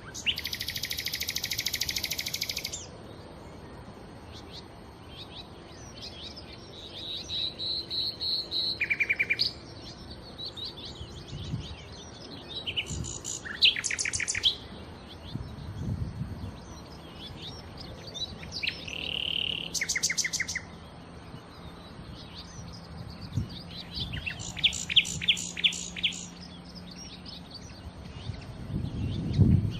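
Nightingale singing in separate phrases with short pauses between them: a loud buzzy rattle at the start, a run of repeated whistled notes, and several fast clicking trills.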